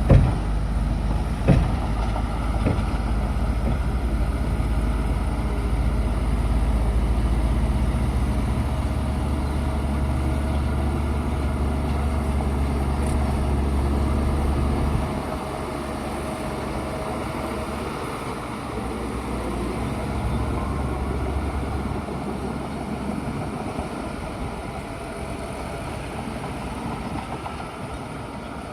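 Bulldozer's diesel engine running steadily under work, with a few sharp knocks in the first three seconds. About halfway through the engine drops to a lower, quieter level.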